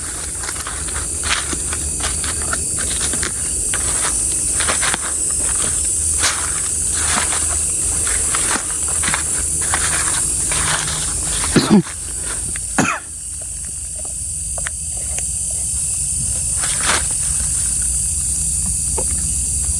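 Footsteps crunching through dry leaf litter on a forest floor, roughly one or two a second, thinning out after about twelve seconds. Under them runs a steady high chirring of crickets. A short throat sound, like a cough, comes about twelve seconds in.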